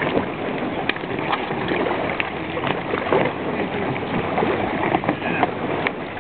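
Muffled rushing river water and boat noise on a whitewater raft, heard from a camera inside a jacket pocket, with fabric rubbing and scattered short knocks.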